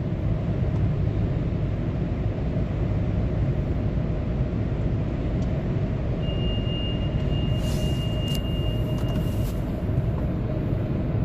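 Steady low rumble of a car heard from inside its cabin. A thin high steady tone sounds for about three seconds past the middle.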